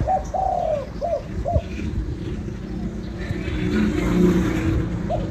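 Spotted dove cooing: one four-note phrase of a short note, a long drawn note and two short notes, lasting about a second and a half. A steady engine hum runs underneath and grows louder in the second half.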